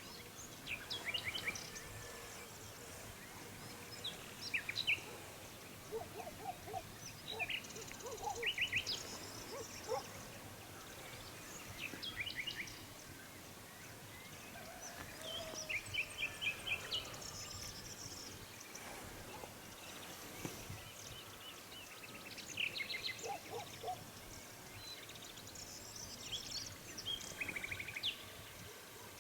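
Several birds of the dawn chorus chirping and singing, with short calls and quick trills coming in bursts every few seconds, over a faint steady background hiss.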